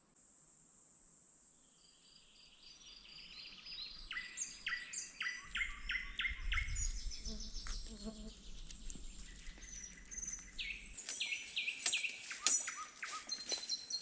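Songbirds chirping and singing in woodland in quick repeated notes, over a steady high insect buzz at the start. A low rumble runs under the middle, and a few sharp clicks come near the end.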